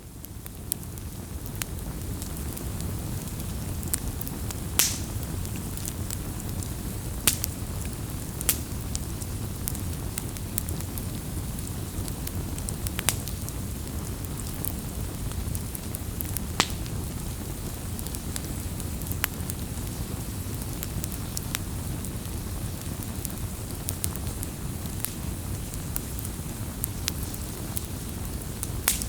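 Campfire burning: a steady low rush of flames with scattered sharp crackles and pops of burning wood. The sound fades in at the start.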